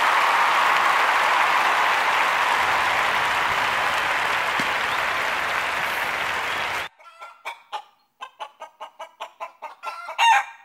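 Steady applause that cuts off suddenly about seven seconds in, followed by a run of quick chicken clucks, several a second.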